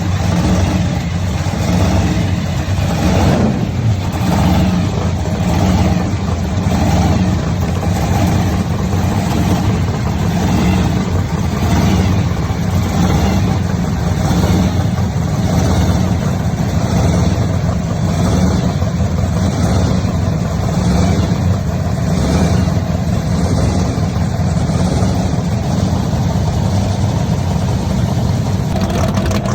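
High-performance muscle-car engines running loud through their exhausts, a steady deep rumble with repeated swells of revving.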